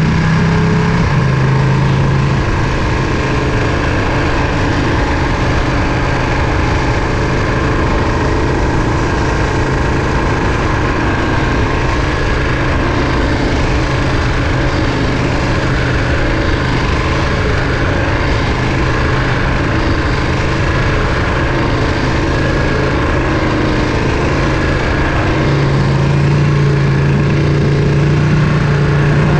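Ducati Panigale V2's 955 cc V-twin engine running at a steady pitch, which drops slightly about two seconds in and rises again near the end.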